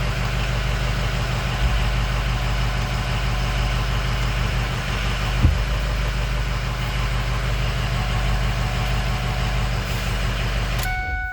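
Fire truck engine idling steadily, with one brief knock about five and a half seconds in. Near the end the engine sound cuts off abruptly.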